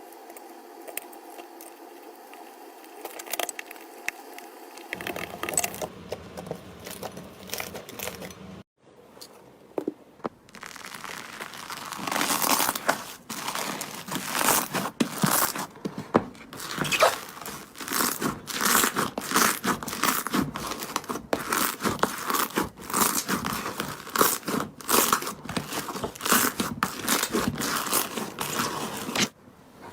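Slime being squeezed and worked, making dense crackling, crunching snaps. Quieter at first, it stops briefly near nine seconds and gets much louder from about eleven seconds on.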